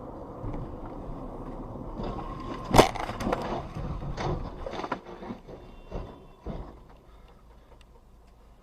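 A vehicle collision: one loud sharp impact about three seconds in, followed by a scatter of smaller knocks and rattles over steady road noise, which dies down after a few seconds.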